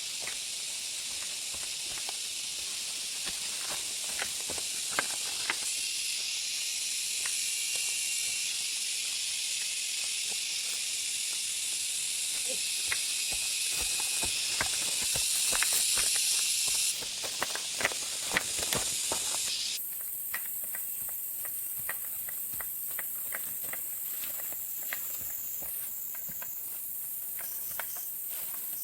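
A high, steady chorus of forest insects calling, which thins abruptly about two-thirds of the way through to a thinner, higher whine. Scattered clicks and rustles are heard throughout.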